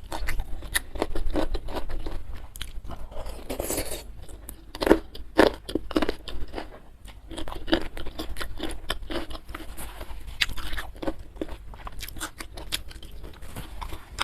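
A person chewing food with many crisp crunches in an irregular run, with a short rustling smear about four seconds in.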